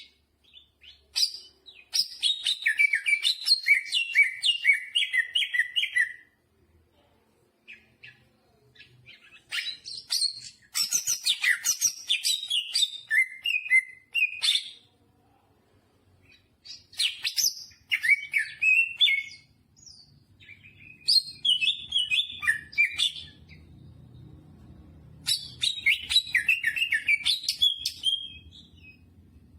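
Green leafbird (cucak hijau) singing in loud, rapid warbling phrases full of mimicked notes, coming in about five bursts of a few seconds each with short pauses between them.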